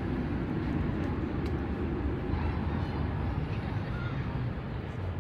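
Steady low engine rumble over an even outdoor city background noise.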